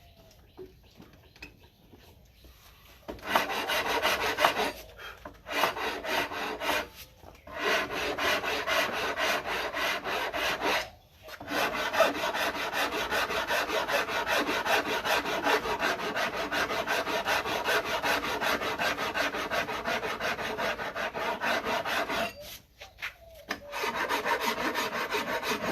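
Handheld rasp carving the wooden back of a bass neck, levelling its high spots, in long runs of quick scraping strokes. It starts about three seconds in and stops briefly a few times.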